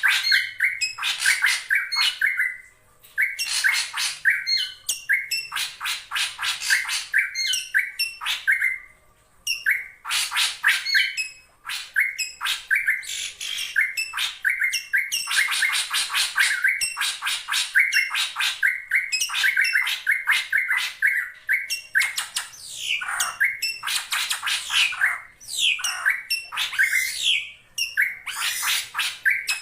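A drongo calling in quick runs of short, sweeping notes with brief pauses between runs, used as a lure call to challenge a rival drongo.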